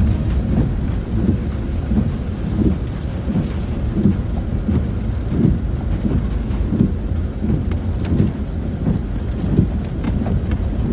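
Low rumble inside a Land Rover Discovery 4's cabin as it crawls over a rough, wet off-road track, with irregular knocks and swells from the tyres and suspension working over the uneven ground.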